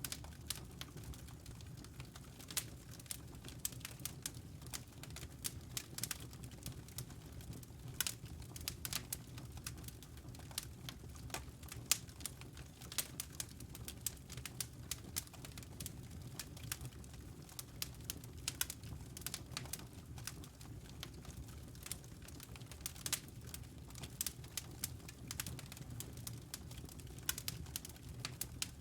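Wood fire burning in a fireplace: a steady low rumble of the flames with irregular sharp crackles and pops from the logs, several a second, a few louder snaps among them.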